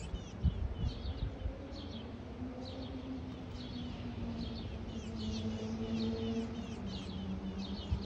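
High, thin, down-slurred bird chirps in quick clusters about once a second, which the listener takes for young birds calling from another nest. A few soft low bumps in the first second, and a steady low hum joins about two and a half seconds in.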